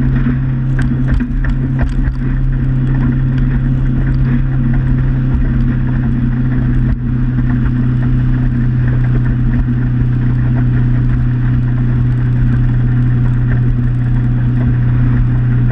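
Motorboat engine running steadily under way, a constant drone that holds one pitch, with a few light clicks in the first couple of seconds.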